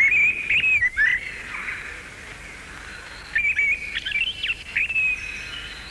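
A songbird singing two short runs of quick, high chirping notes, one at the start and another about three and a half seconds in.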